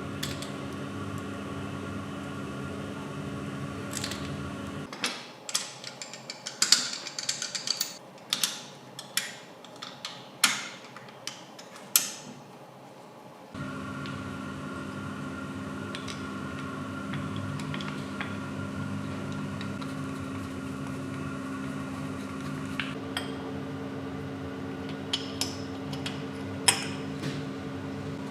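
Steady hum of a running electric motor. It cuts out about five seconds in, and for several seconds metal parts clink and tap against each other. The hum then starts again, with a few more light metallic taps near the end.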